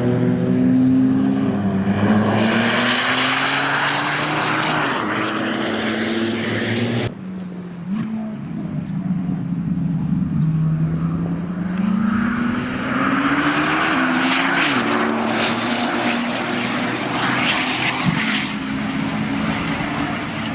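Porsche 997 Turbo's 3.6-litre twin-turbo flat-six running through straight-pipe exhaust, loud, with its pitch climbing and falling as the car accelerates and shifts. About seven seconds in the sound cuts abruptly, then the engine pulls up steadily from a lower pitch again, with drops at each shift.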